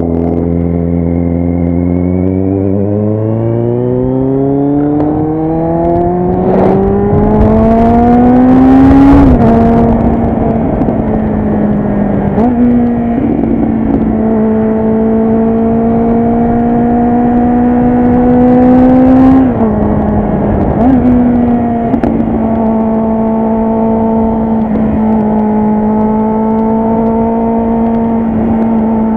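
Kawasaki Z800's inline-four engine through a loud aftermarket exhaust, pulling hard under throttle. The pitch climbs steadily for about nine seconds and drops suddenly at an upshift. It holds steady, climbs again to a second sudden drop a little past halfway, then holds a steady cruising note.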